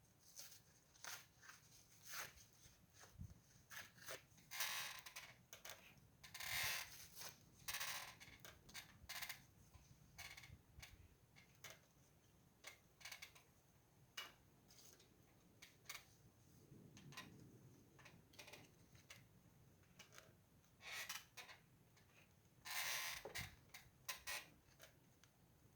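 Faint crackling of a wood fire, with irregular sharp snaps, some in quick clusters.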